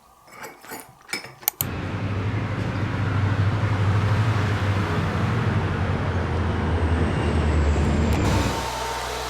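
A few clicks of handling, then a hair dryer switched on about a second and a half in, running with a steady rush of air over a low motor hum. Near the end it drops to a quieter setting and keeps running.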